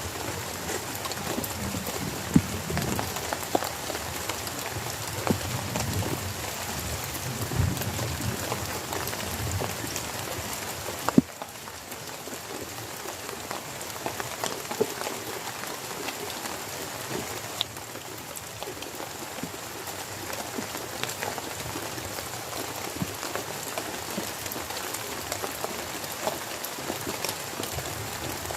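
Heavy rain falling steadily, with many separate drops ticking sharply close by. About eleven seconds in there is one sharp knock, and after it the rain is a little quieter.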